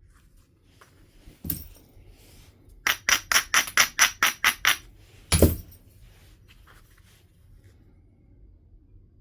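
Flint being knapped. A single light strike comes about a second and a half in, then a quick, even run of about nine short strokes on the stone, and a heavier blow a little after five seconds in, the loudest sound, with a deeper thud to it.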